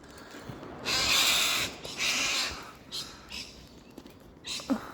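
Harsh, screeching bird calls from the birds attacking the climbing rope: two long loud calls about one and two seconds in, followed by shorter, fainter ones.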